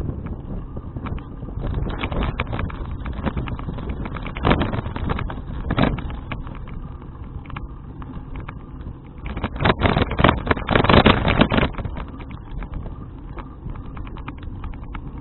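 Wind rushing over an action camera's microphone while riding a bicycle, with many small clicks and rattles. The noise swells briefly about four and a half seconds in and again near six seconds, and is loudest from about nine and a half to twelve seconds.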